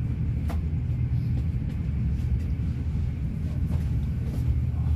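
Steady low rumble of an intercity passenger train running, heard from inside a carriage.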